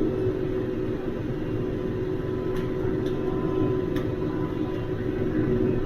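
TYM T574 diesel tractor running steadily, a constant engine drone with a few faint ticks.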